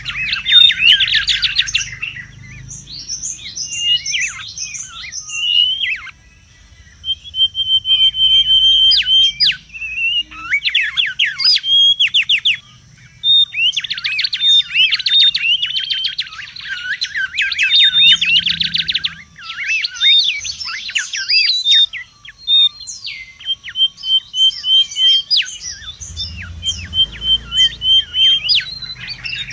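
Mangrove whistler (kancilan bakau) singing busily: quick runs of sweeping and falling notes mixed with repeated steady whistled notes, in bursts broken by brief pauses about six and thirteen seconds in.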